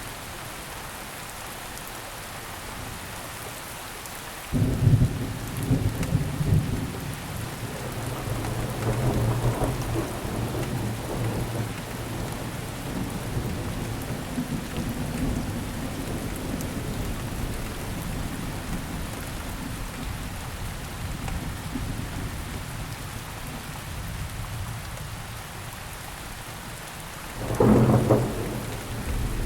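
Steady rainfall with thunder. A sudden clap about four and a half seconds in rolls on as a low rumble for several seconds, and a second loud crack comes near the end.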